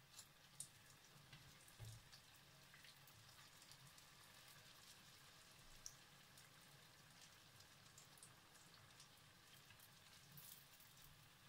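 Faint crackling of zalabia batter frying in shallow oil in a pan, with scattered small pops, and two soft knocks in the first two seconds as tongs handle it.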